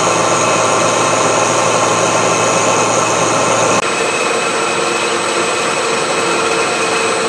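Milling machine running a carbide end mill through steel, a steady cutting drone with several high tones. The sound changes abruptly a little under four seconds in and carries on slightly quieter.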